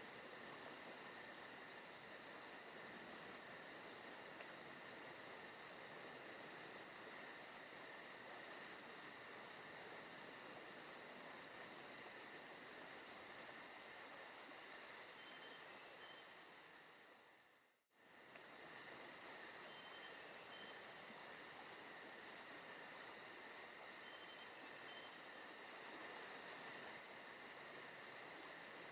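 Forest ambience of crickets chirring steadily, a fast even pulsing with high steady tones over a soft hiss. The chorus fades out to silence a little over halfway through and fades straight back in.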